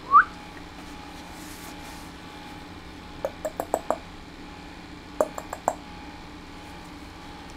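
A person clicking their tongue in two quick runs, about five clicks and then four, a typical way of calling a puppy. A short rising squeak comes right at the start.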